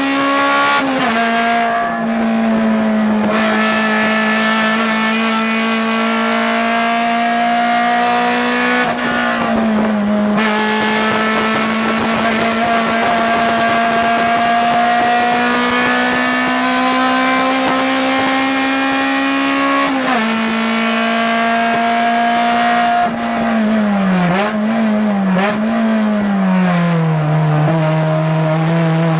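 Acura RSX Type S race car's 2.0-litre inline-four engine at high revs, heard from inside the cabin. Its pitch climbs slowly through each gear and drops suddenly at upshifts about a second in, near ten seconds and near twenty seconds. Late on, the revs dip and rise in a few quick blips, then settle lower.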